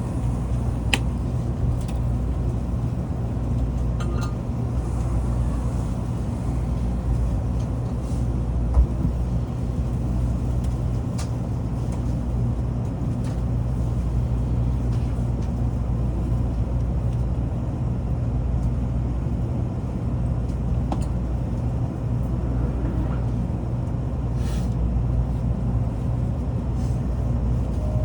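Tokaido Shinkansen train running: a steady low rumble with a few faint clicks, holding level throughout.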